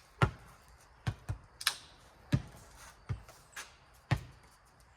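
Rubber playground ball bouncing on the court and being slapped back by hand in a four square rally: about eight sharp smacks at an uneven pace, some in quick pairs.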